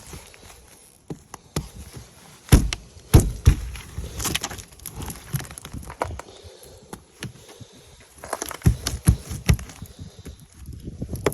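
Ice on a truck being struck and cracked, in irregular sharp knocks and cracks, the loudest a few seconds in and a cluster later on.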